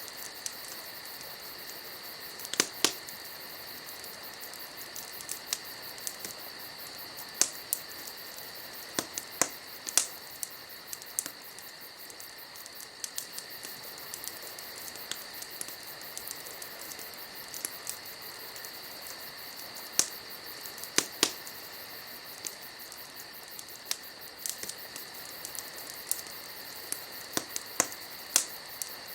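Wood campfire crackling, with irregular sharp pops and snaps, a few of them in quick pairs. Under it runs a steady high chirring of crickets or other night insects.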